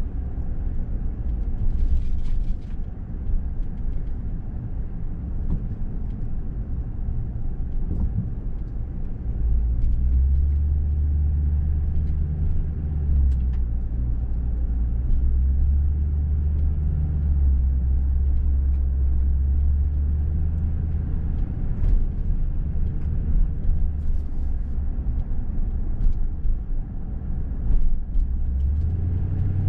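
Low, continuous rumble of a motor vehicle running, its pitch shifting a few times.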